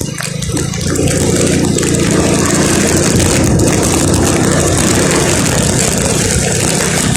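Vehicle engine running, getting louder over the first second as it picks up, then holding a steady note, with a constant hiss of rain and wet road above it.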